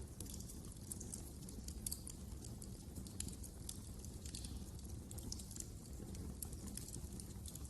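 Wood fire crackling in a fireplace: irregular sharp snaps and pops over a low, steady rumble of the flames.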